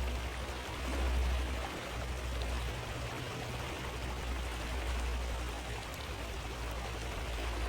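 Steady rush of a flowing river, with a deep low rumble underneath.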